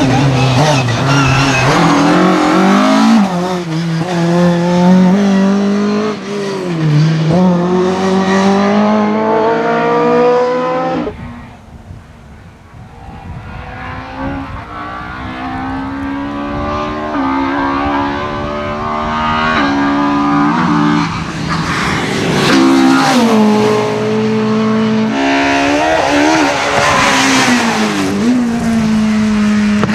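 Rally car engines at full throttle, revving up through the gears in short steps as a car passes. The sound drops away sharply about eleven seconds in, then another car builds up, changing gear, lifting off and accelerating again.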